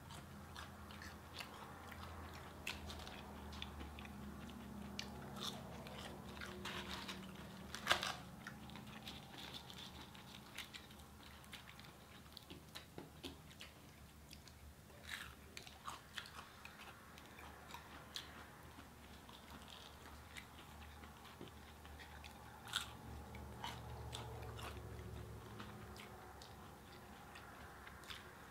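Mouth sounds of people eating a Burger King meal: biting, chewing and crunching, heard as many small scattered clicks and crunches, with one sharper, louder click about eight seconds in.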